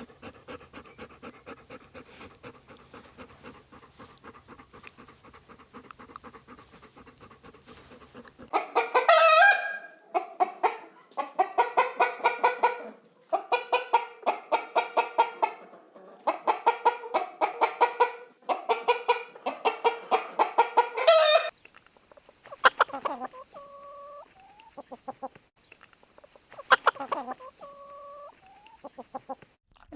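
Chickens clucking and cackling in rapid, pitched bouts. The calls are quieter at first, become loud and repeated from about a third of the way in, and turn sparse and fainter near the end.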